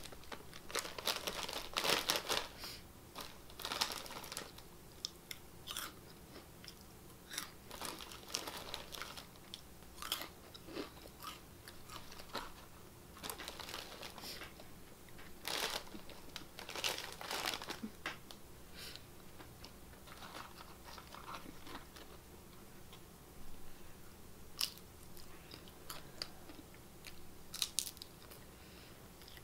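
A person biting and chewing crunchy nacho tortilla chips close to the microphone: irregular loud crunches, bunched most densely near the start and about halfway through, with quieter chewing between.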